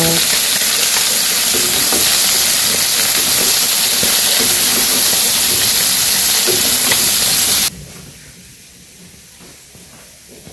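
Sliced bitter gourd frying in hot oil in a wok-like pan, a steady loud sizzle with faint clicks of a spatula stirring. The sizzle cuts off suddenly about three-quarters of the way through, leaving quiet outdoor background.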